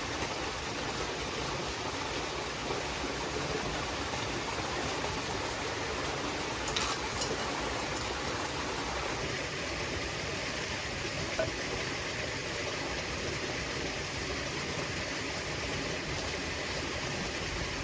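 Stream water running steadily, with a few brief clicks about seven seconds in and again near eleven seconds.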